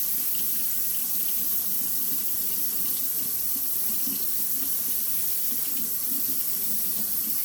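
Kitchen tap running steadily into the sink while soapy scissors and hands are rinsed under it.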